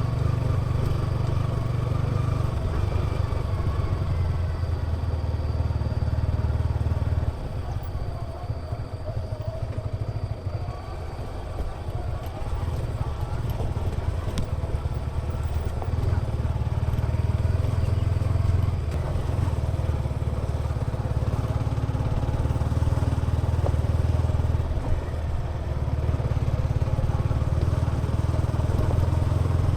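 Yamaha XSR 155's single-cylinder engine and exhaust running under way. It pulls steadily, then eases off for several seconds about a quarter of the way in, as on a closed-throttle descent, and picks up again under throttle.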